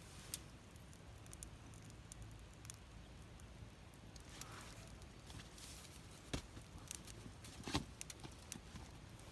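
Wood campfire crackling faintly, with a few sharp pops scattered through it; the loudest comes near the end.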